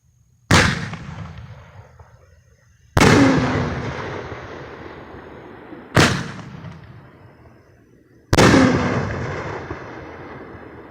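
Dominator 1.4G Pro-line 62mm preloaded aerial shells going off: four loud, sharp booms two to three seconds apart, each trailing off in a long rolling echo.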